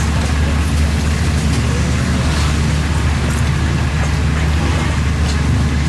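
Beaten egg omelette deep-frying in hot oil in a wok, sizzling and crackling steadily over a strong, steady low rumble.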